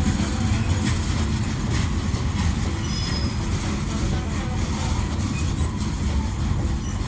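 Freight train boxcars rolling past, a steady loud rumble of steel wheels on rail, with a brief faint high squeal about three seconds in.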